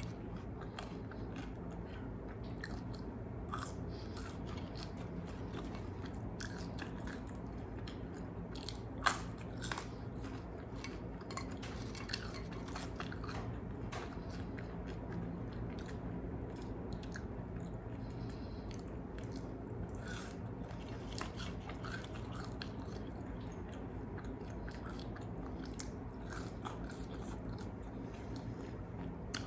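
A person biting and chewing crispy fried chicken wings close to the microphone: a run of small crunches and chewing clicks, with one sharper crunch about nine seconds in.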